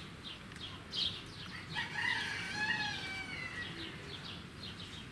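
Birds calling: short chirps repeat throughout, and about two seconds in comes one longer drawn-out call whose pitch arches up and back down, lasting about a second and a half.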